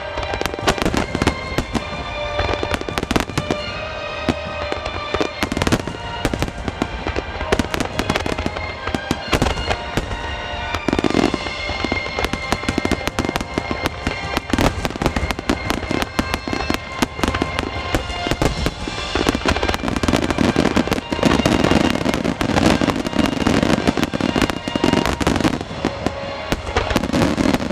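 Aerial fireworks shells bursting and crackling in a dense barrage, many reports a second, over music played with the show. The bursts grow thicker and heavier in the last third.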